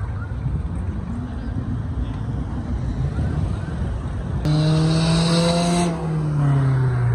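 A car accelerates past at close range over road traffic noise. Its engine note comes in loud about four and a half seconds in, holds for about a second and a half, then falls in pitch as the car goes by.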